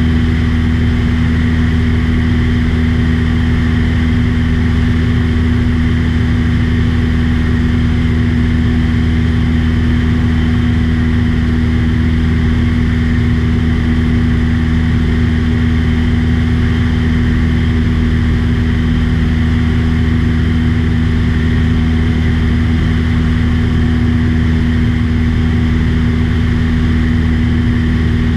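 Small aircraft's engine and propeller droning steadily in cruise, heard from on board, with no change in pitch or level.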